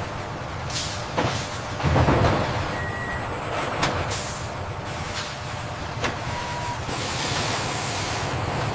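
Factory-floor machinery running with a steady low hum, punctuated by several metallic knocks and clanks, with a louder clatter about two seconds in. Two short beeps sound, and a hiss of air builds near the end.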